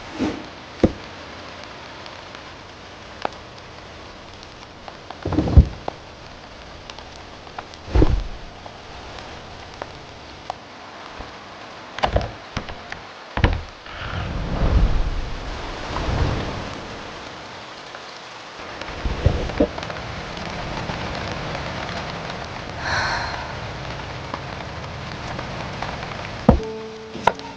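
Steady rain hiss, with a number of separate thumps and knocks scattered through it and a few low swelling rumbles in the middle.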